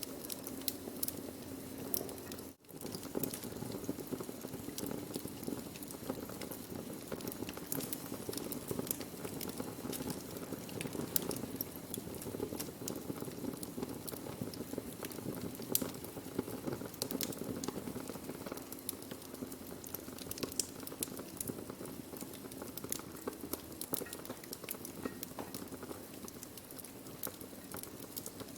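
Wood fire burning: a steady hiss with frequent sharp crackles and pops. The sound cuts out for an instant about two and a half seconds in.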